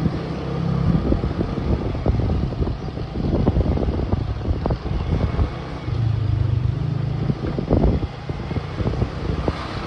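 Motorbike engine running while riding, with wind buffeting the microphone.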